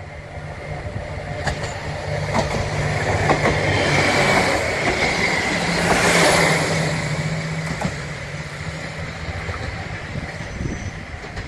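A rail vehicle passing close by: a steady hum with wheels clicking over rail joints, growing louder to a peak about six seconds in, then fading.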